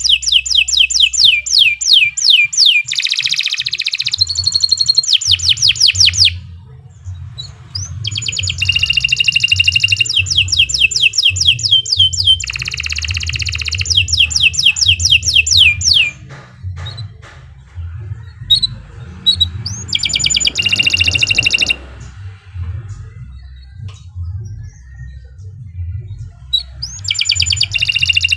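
Domestic canary singing long song phrases of fast repeated notes and rapid downward-sweeping trills. The bouts last several seconds each, with short pauses between them.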